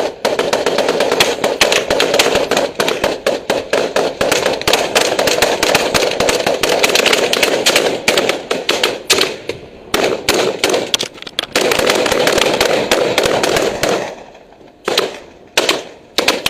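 Machine guns firing long sustained automatic bursts, with brief breaks about ten seconds in, then several short bursts near the end.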